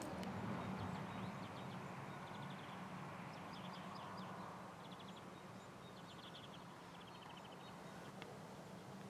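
Small birds chirping in short rapid series, again and again, over faint outdoor ambience with a steady low hum.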